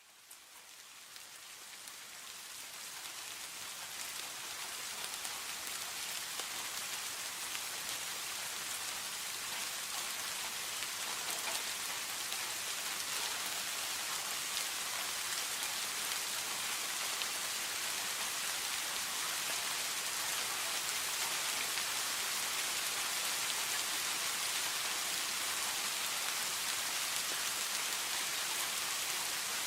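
Steady rain falling, fading in over the first few seconds and then holding as an even hiss.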